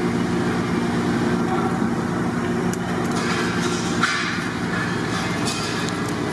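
A steady low mechanical drone with a few light clinks, and a brighter hiss rising over it about three seconds in.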